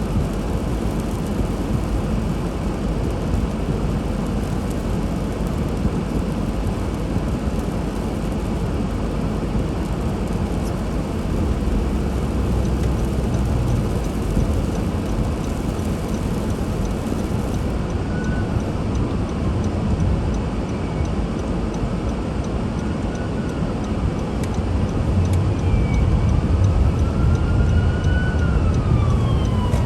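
Steady road and engine noise of a car driving. From about two-thirds of the way through, an emergency vehicle's siren wails slowly up and down.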